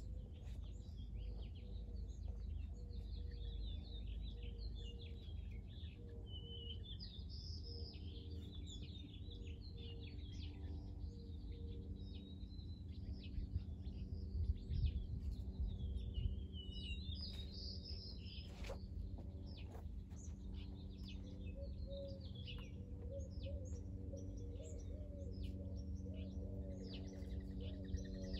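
Several small birds chirping and warbling on and off over a steady low background rumble.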